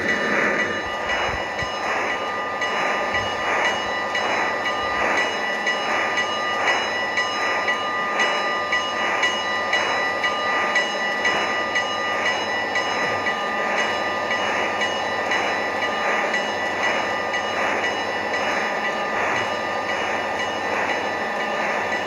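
Iowa Interstate freight train rolling past, its cars' wheels beating in an even clickety-clack over the rail joints, with a steady high-pitched ring running over the rumble.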